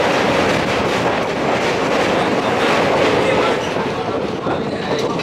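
Passenger train coach running steadily along the track, its wheels rumbling on the rails in a loud, continuous noise heard from the coach window.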